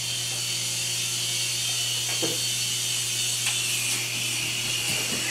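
Toy helicopter's small electric motor and rotor running with a steady high-pitched whir.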